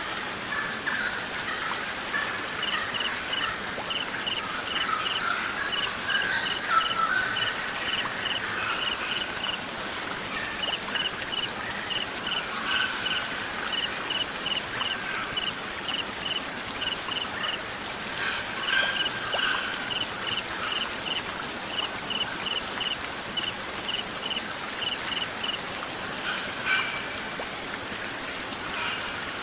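Songbirds calling over a steady hiss of rain or running water, with a rapid, evenly paced series of short high chirps running through most of it.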